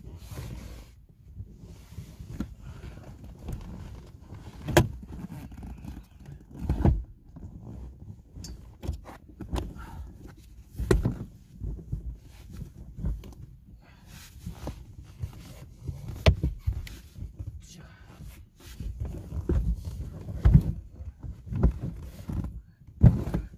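Irregular knocks, bumps and rustling of gear being handled inside a Kia Ray's small cabin, with a low rumble underneath.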